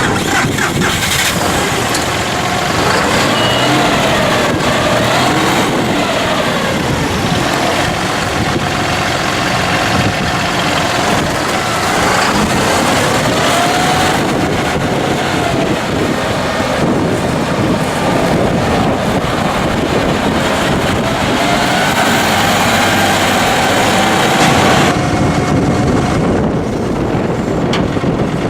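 John Deere 5045E tractor's three-cylinder turbocharged diesel engine running, its pitch rising and falling again and again.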